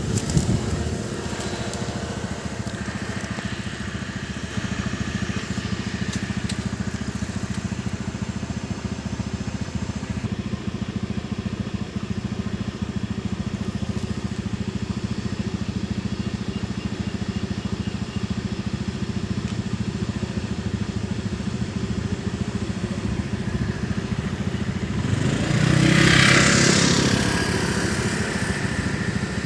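A small engine running steadily, with a louder swell lasting about two seconds near the end.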